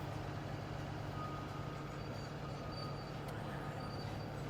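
Diesel truck engine idling steadily with an even low hum.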